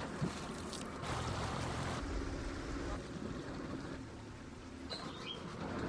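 Motorboat engine running steadily on floodwater, a low even hum under the rush of water and wind.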